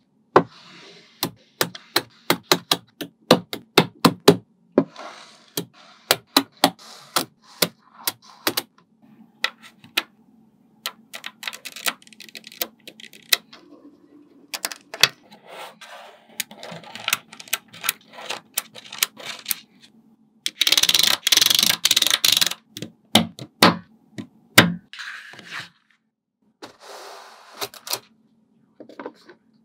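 Small magnetic balls clicking sharply against each other as they are snapped into place, in irregular runs of quick clicks. About two-thirds of the way through, a dense, loud rattle lasts about two and a half seconds.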